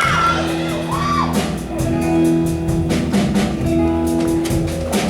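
Band music: sustained held chords over regular drum and cymbal hits, with a few sliding notes near the start.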